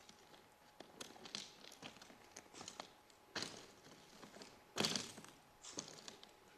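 Footsteps crunching on railroad track ballast, an uneven run of steps with one louder crunch about five seconds in.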